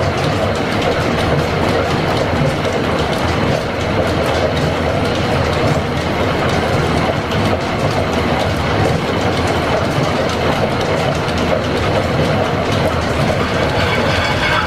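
Loud, steady mechanical clatter and rumble running without a break.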